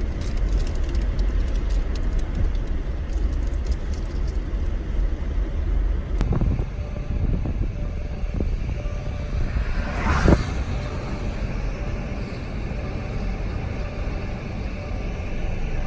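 Steady low rumble with a short, loud thump about ten seconds in.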